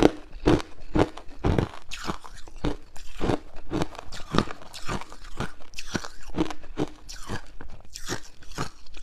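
Hard ice cubes being bitten and chewed close to the microphone: a steady run of sharp, brittle crunches, several a second.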